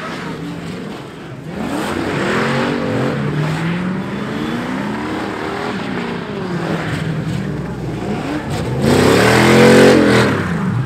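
Car engine revving hard, its pitch climbing and falling over and over as the car spins donuts, with a hiss of tyre noise. The loudest rev comes about nine seconds in.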